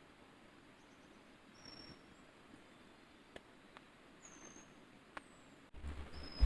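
Quiet forest ambience with a few short, high, falling bird chirps and occasional faint clicks. Near the end a low rumble starts suddenly, ending in a loud thump.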